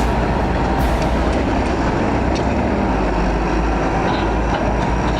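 Heavy machinery running: a steady, loud, noisy rumble with a few faint clicks.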